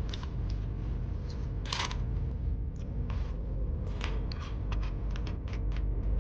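Crunchy snacks being chewed and handled close to the microphone: irregular short crisp crunches and crackles, more frequent in the second half, over a low steady rumble.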